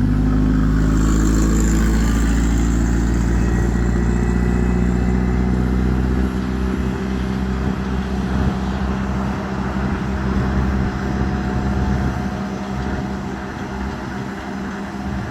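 Pushback tug's diesel engine running hard close by while pushing a cargo jet back, a deep steady drone that gradually fades after about six seconds. A fainter high whine sits above it.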